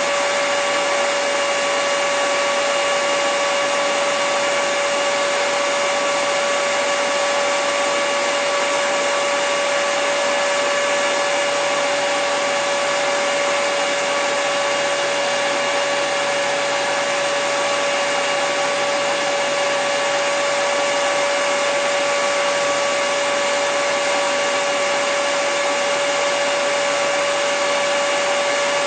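Hair dryer running steadily at a constant speed: an even rushing of air with a steady motor whine held at one pitch.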